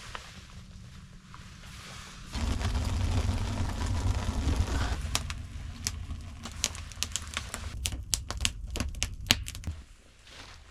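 Blowing on a smouldering char-cloth ember in a tinder bundle makes a steady rushing of air for several seconds. From about halfway in, fatwood shavings and kindling crackle and pop in quick irregular snaps as they catch flame.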